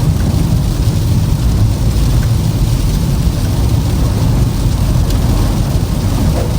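A car driving on a snowy road: a steady, loud, low rumble of tyre and road noise with no change in pace.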